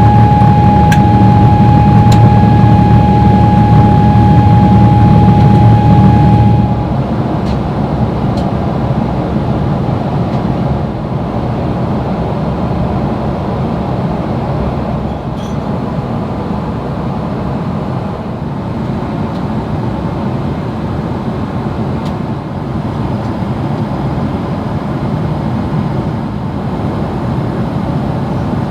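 Boeing 777-300ER jet noise: a steady roar of engines and airflow, with a steady high whine over it for the first six seconds or so. About six seconds in, the whine stops suddenly and the level drops to a quieter, even roar.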